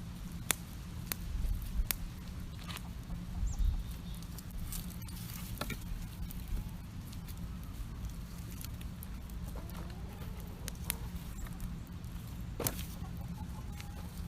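Wood campfire crackling, with sharp pops every second or so. Chickens cluck now and then.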